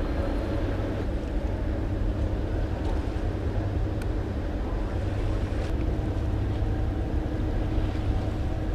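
Small raiding boat's motor running steadily under way, with wind buffeting the microphone.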